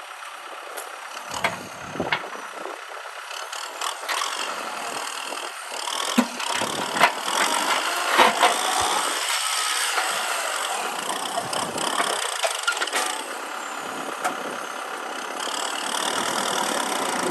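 Kubota M6040 SU tractor running steadily under work, with rattling and several sharp knocks and clanks, the loudest about 7 and 8 seconds in.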